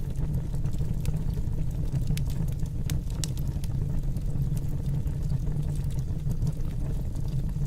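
Wood fire burning in a fireplace: a steady low rush of flames with scattered sharp crackles and pops.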